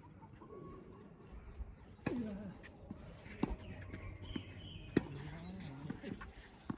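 Tennis ball struck by rackets during a rally: three sharp hits about a second and a half apart, the last the loudest, with voices faint in the background.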